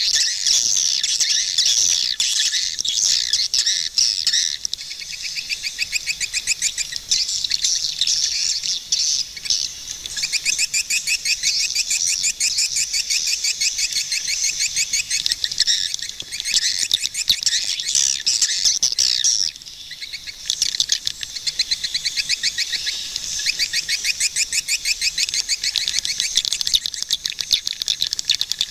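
Swiftlets calling: fast trains of rapid, evenly repeated high chirps, one train running into the next almost without a gap, with a brief lull about twenty seconds in.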